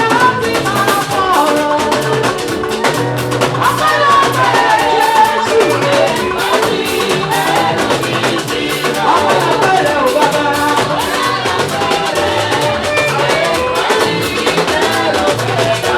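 Live gospel praise band playing at a steady loud level: drum kit and percussion keep a fast, busy beat under a stepping bass line, with a melody moving over the top.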